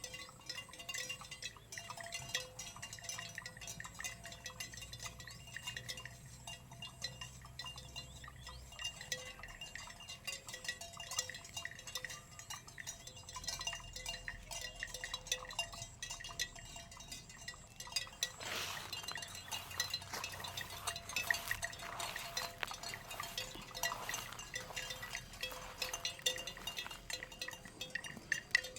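A herd of animals feeding on grass, with a steady scatter of small clinks and clicks that gets busier about eighteen seconds in.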